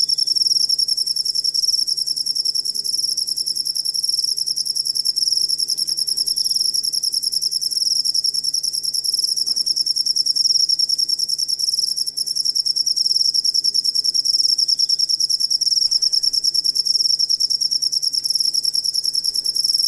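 Cricket chirping in a continuous, high-pitched, fast-pulsing trill that goes on without a break.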